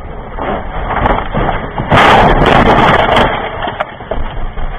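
Car collision: a noisy crunching and scraping builds up, then a loud crash of crushing metal and breaking material about two seconds in lasts over a second and dies away.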